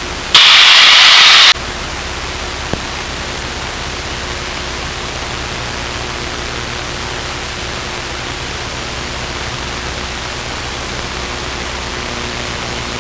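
Steady hiss and drone of a light airplane's cockpit heard through the headset intercom in flight. About half a second in, a loud burst of radio static lasts about a second, and a short click follows near three seconds.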